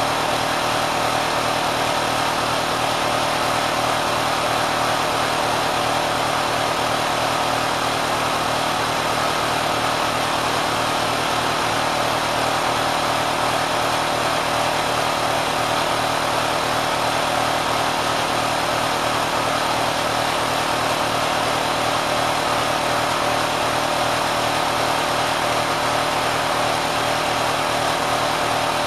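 Kenmore sewing machine driven by a swapped-in 3/4 hp motor, running steadily at high speed with a fast, even rattle.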